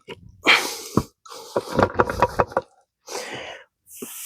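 Metal transmission parts knocking and clinking as a stuck part is worked loose from the case: a scrape, a sharp knock, then a quick run of about eight clicks. A hiss starts near the end.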